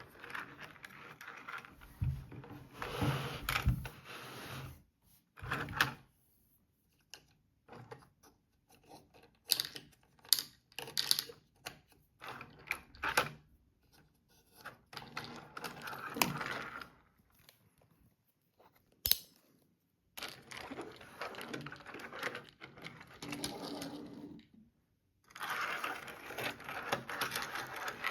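Toy cars and plastic playtrack pieces being handled and run: irregular clicks, clatters and rattling stretches, with short pauses between them.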